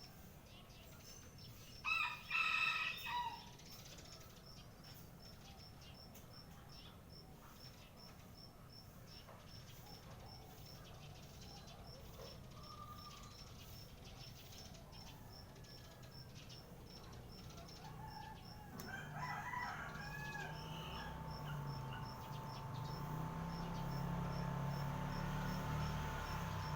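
A rooster crows once, loudly, about two seconds in, over faint scattered chirps of small birds. Later there are a few curving bird calls, then a steady hum and a low rumble that grows toward the end.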